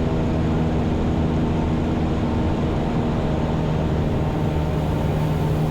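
Cessna 172's piston engine and propeller droning steadily in flight, heard from inside the cockpit. It is an even hum with a few steady tones, and it does not change in pitch or level.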